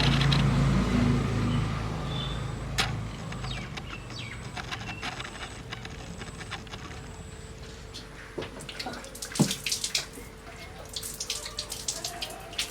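Hands being washed with water poured from a vessel, with scattered splashes and drips. A low hum fades out over the first two seconds.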